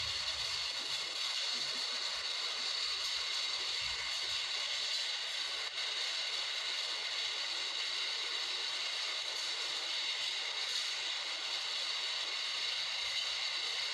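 Steady rushing hiss of a windstorm, with gusts buffeting the microphone in the first few seconds.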